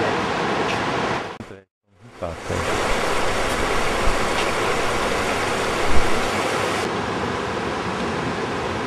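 Steady rush of the Krimml Waterfalls' water, swollen by snowmelt. It breaks off into silence for about half a second near two seconds in, then resumes, with a low thump about six seconds in.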